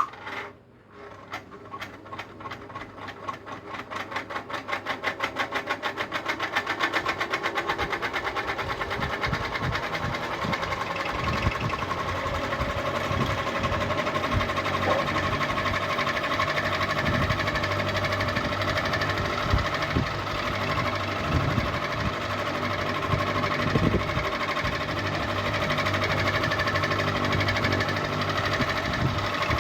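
Ceiling fan switched on and spinning up: a rhythmic beat quickens over the first several seconds as it grows louder, then it runs steadily with a hum.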